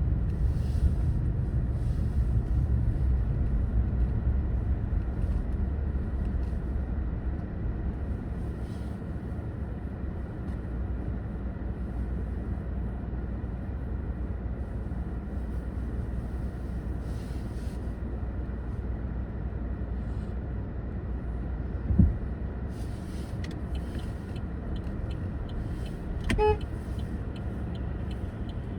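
Steady low rumble of a car driving, with a single sharp thump about 22 seconds in and a brief car horn toot near the end.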